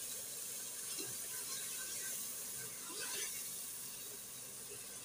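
Onion-tomato masala with yogurt sizzling softly in a nonstick pan while a silicone spatula stirs it, with a few faint scrapes against the pan.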